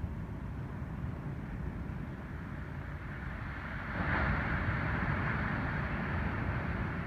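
Ocean surf from an incoming typhoon swell: a steady low rumble of waves, with a wave breaking about four seconds in that adds a louder hissing wash.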